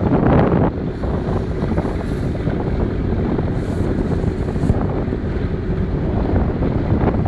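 Wind buffeting the microphone over the steady rumble of a small boat running at sea.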